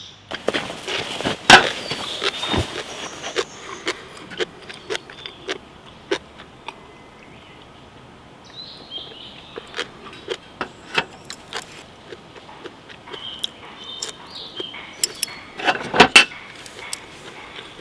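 Handling sounds: scattered sharp clicks, taps and knocks as small objects are picked up and set down. There is a loud knock about a second and a half in, and a denser run of clatter near the end.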